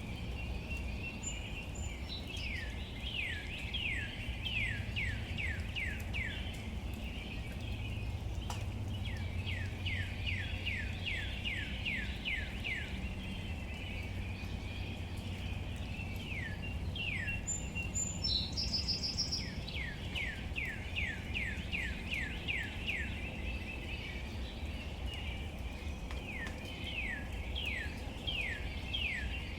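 A bird repeating trains of short down-slurred whistled notes, about three a second, in several bursts, with a few brief higher chirps from another bird. Underneath is a steady outdoor background noise with a low rumble.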